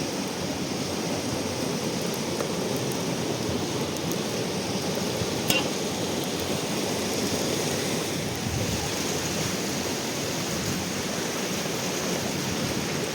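Steady rushing of flowing river water, with a single sharp click about five and a half seconds in.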